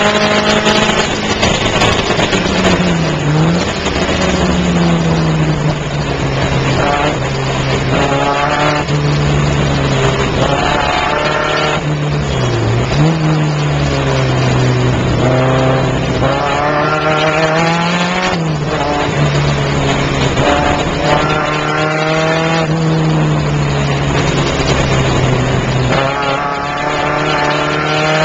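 Car engine heard from inside the cabin while lapping a race circuit, its revs holding fairly steady for long stretches with a few sharp dips and rises in pitch as it changes gear and lifts for corners.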